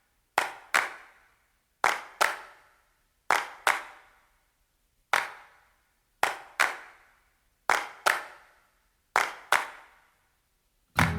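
Hand claps with a long echoing tail, mostly in pairs, repeating about every second and a half. A sustained music chord comes in at the very end.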